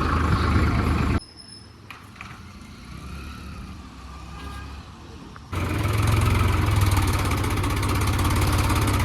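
Swaraj 735 tractor's diesel engine running steadily. The engine sound drops out abruptly about a second in, leaving a quiet stretch of about four seconds, then comes back abruptly and runs on.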